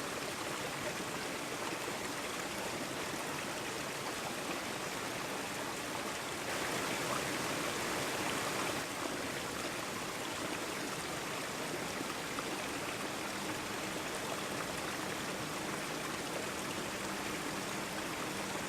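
Steady rush of running water, like a stream, a little louder for a couple of seconds partway through.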